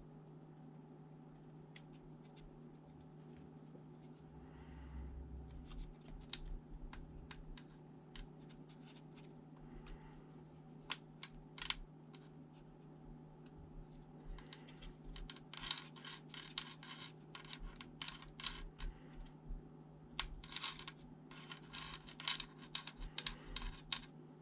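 Small clicks, taps and light rattling of hands working on a laptop's parts with small tools, sparse at first and coming in dense clusters in the second half, over a steady low hum.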